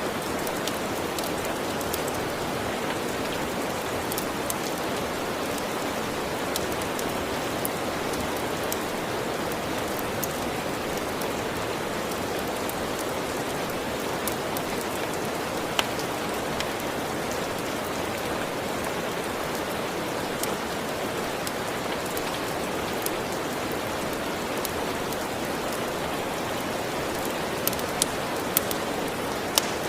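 Steady rain with occasional sharp crackles from a wood fire, several coming in quick succession near the end.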